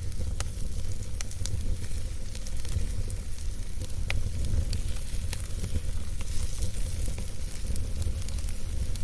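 Campfire burning: a steady low rumble from the flames with irregular sharp pops and crackles of burning wood scattered throughout.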